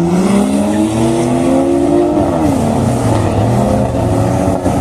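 Drag-racing car engines at full throttle accelerating down the strip. The pitch climbs for about two seconds, drops sharply at a gear change, then climbs again.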